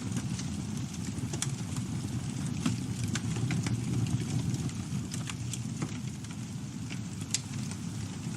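Campfire burning: a steady low rumble of flames with irregular sharp crackles and pops of burning wood, one louder pop near the end.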